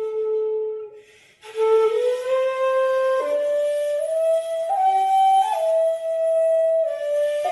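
Flute playing a slow melody of long held notes with an audible breathy tone. It breaks off for a breath about a second in, then climbs step by step through held notes and settles back a little near the end.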